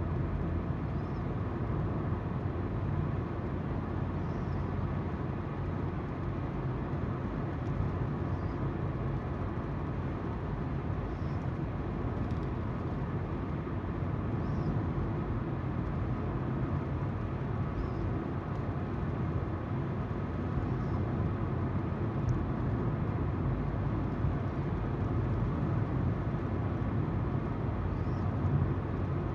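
Steady tyre noise on the road and engine hum of a car driving at a constant pace, heard from inside the car.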